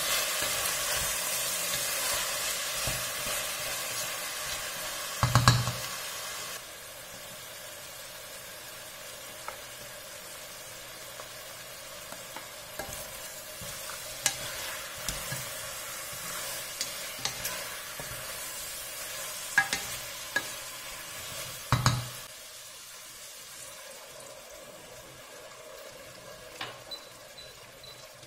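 Chicken pieces, mushrooms and peppers frying and sizzling in a stainless steel pressure cooker while a wooden spoon stirs them, with small clicks and scrapes of the spoon against the pot. The sizzle is strong at first and drops to a quieter hiss about six seconds in. Two louder knocks come from the spoon, about five seconds in and again near twenty-two seconds.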